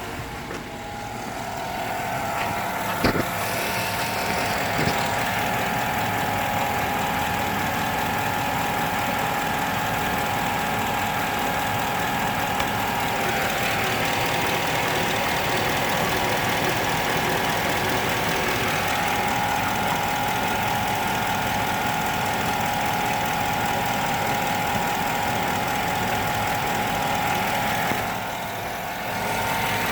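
A Chevy 5.3-litre Vortec V8 idling steadily at full operating temperature, with a light knock that the owner places mainly on the right side and low on the engine. He fears it comes from failing AFM roller lifters wearing the camshaft. There is a single sharp click about three seconds in.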